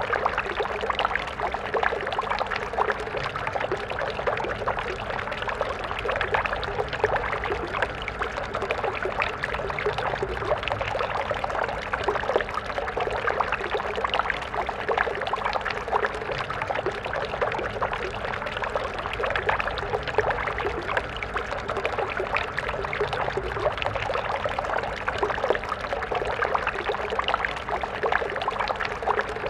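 A stream of water flowing steadily, a continuous babbling and splashing with no break.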